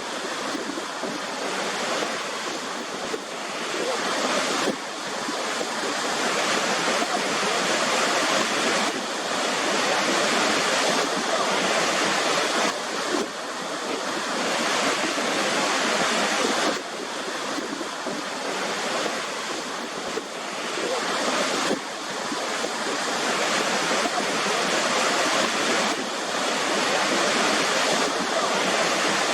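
Waterfall: a steady rush of falling water, with a few sudden small dips in level.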